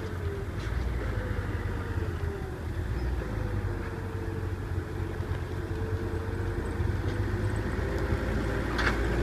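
Heavy machine's diesel engine running steadily with a low rumble, and a short knock near the end.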